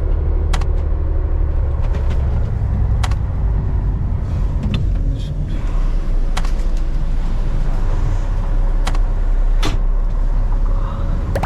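Charter fishing boat's engine running steadily with a deep rumble, with a few sharp knocks here and there.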